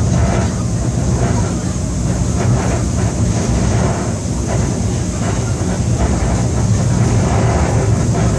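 Seoul Subway Line 7 train heard from inside the carriage while running: a steady, loud rumble and hiss from wheels and rails, with a thin high whine over it. Passengers' conversation is faintly audible underneath.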